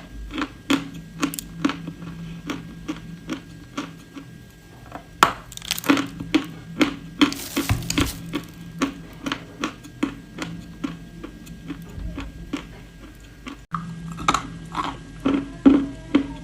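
Close-miked chewing of edible clay: a run of sharp, brittle crunches, a few each second, with a quieter pause partway through.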